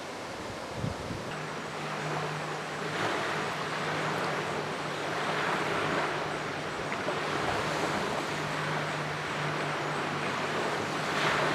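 Small waves washing against a rocky lakeshore in slow, repeated swells, with a steady low engine hum joining about a second in.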